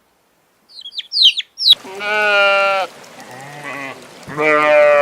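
A few high, quick descending chirps, then two long bleats from a farm animal, each lasting about a second, the second starting a little over a second after the first ends.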